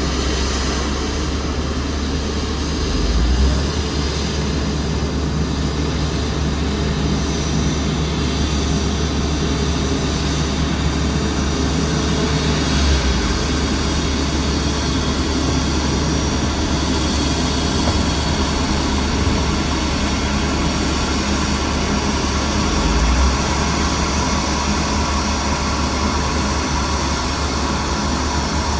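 Steady jet airliner noise from an Airbus A350-900: a constant, even rumble with three brief low swells about ten seconds apart.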